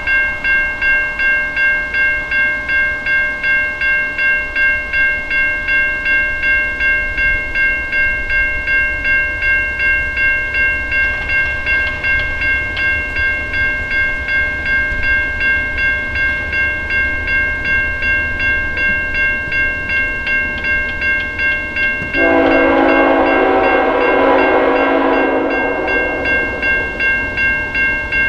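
Railroad grade-crossing warning bell ringing steadily at about two strikes a second over the low rumble of an approaching freight train. About 22 seconds in, the lead locomotive's air horn sounds one long chord-like blast of about three and a half seconds.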